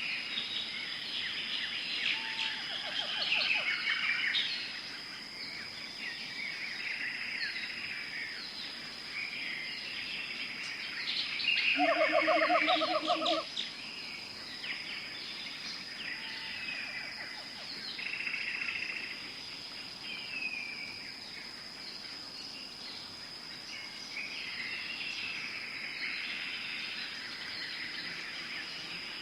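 Tropical forest ambience: many birds chirping and calling over one another above a steady high-pitched insect tone. About twelve seconds in, a louder rapidly pulsing call lasts about a second and a half, with a shorter, fainter one like it near the start.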